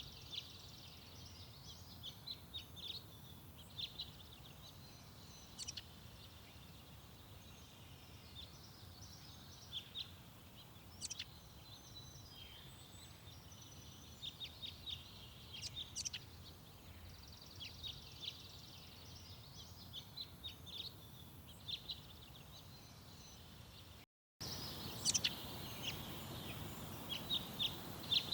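Small garden birds chirping and calling: many short, high chirps, singly and in quick runs, over a steady low outdoor background rumble. About 24 seconds in the sound drops out for a moment, and after that the background is louder.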